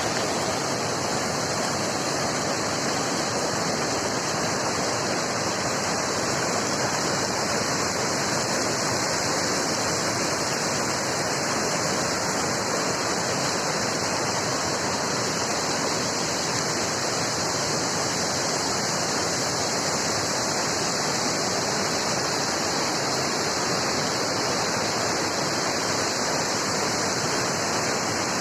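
Water from an overflowing irrigation tank rushing and pouring steadily, a continuous even rush of water.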